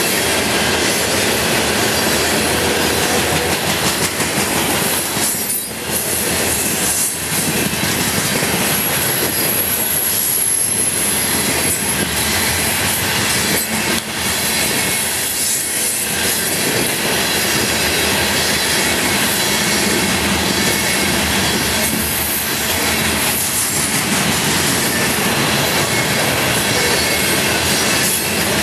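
Loaded CSX coal hopper cars rolling past: a steady, loud rumble and rattle of steel wheels on rail, with a thin high wheel squeal briefly around ten seconds in.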